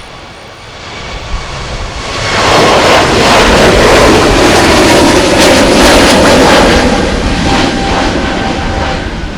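Airbus A320neo jet engines at takeoff power, swelling about two seconds in to a loud, steady rush that eases slightly near the end as the airliner passes.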